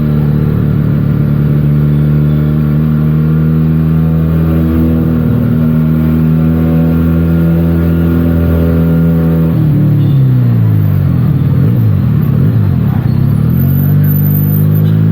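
Benelli TNT 300's parallel-twin engine through its stock exhaust, running at steady revs under way. About ten seconds in, the revs fall and climb again several times, then settle.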